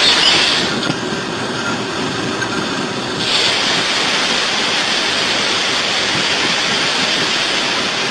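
Steady rushing noise of a locomotive running along the track, heard from its cab, turning a little louder and hissier about three seconds in.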